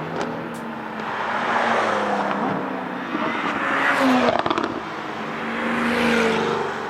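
Porsche 992 GT3 RS's naturally aspirated flat-six through a very loud Brillsteel Edizioni Corsa aftermarket exhaust, racing on track, its engine note rising and falling through gear changes and swelling several times. A short burst of sharp crackles comes about four and a half seconds in.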